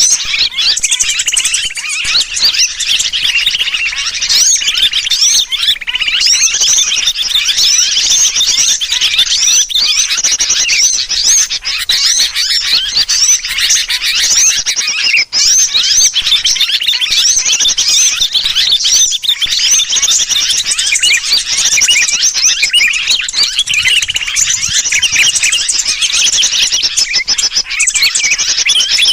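Bird-lure recording of a noisy flock of small birds chattering, mixed with the distress calls of a sooty-headed bulbul (kutilang) as if trapped. Dense, overlapping high chirps and trills with no pauses.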